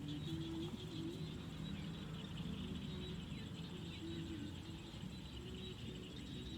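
Faint outdoor animal chorus: a steady high chirring, with short low calls repeating throughout.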